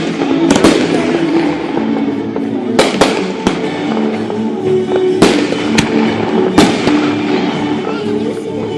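Fireworks exploding overhead: sharp bangs of shells bursting, irregularly about every second or two, with a few close together, over music with long held notes.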